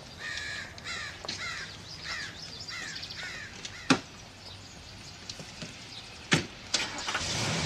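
A bird calling: a quick run of short calls, each falling in pitch, over about three seconds, followed by a few sharp knocks.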